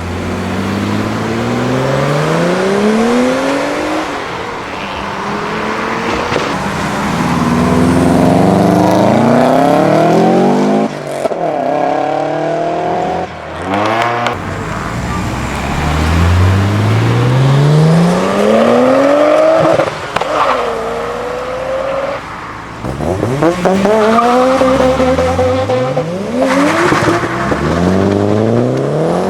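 Modified cars accelerating away one after another, engines revving up in pitch through the gears, cutting off and rising again at each shift, with a couple of sharp cracks about halfway through.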